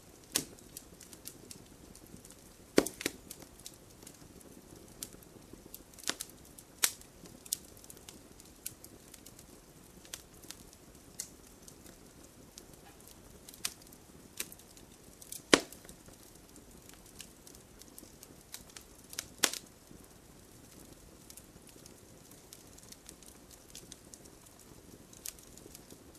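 Wood fire in a fireplace crackling, with a soft steady hiss and scattered sharp pops and snaps, a few of them loud.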